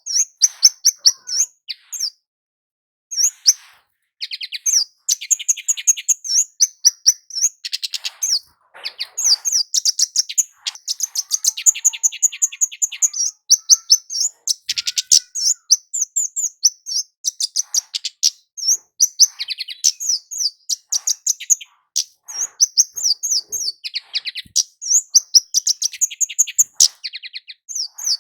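A kemade jawa, a flowerpecker, singing a rapid run of high, thin chirps. The notes come in quick runs that repeat, with a brief pause about two seconds in.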